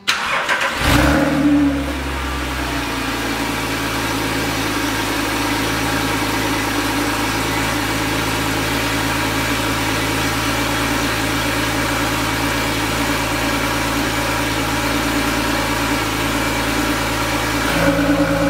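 2012 Porsche 997.2 Carrera GTS's 3.8-litre flat-six starting from cold: a brief crank, then it catches about a second in with a loud flare of revs and settles into a steady high cold idle through the quad exhaust. Near the end the exhaust note changes and gets a little louder.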